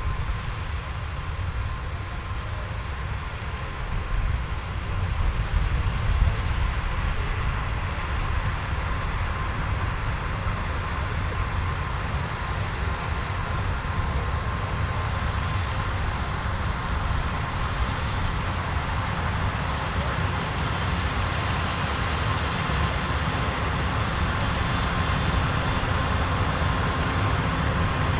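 Combine harvester running while harvesting corn: a steady machinery drone with a heavy low rumble and a constant thin whine, growing a little louder and brighter toward the end.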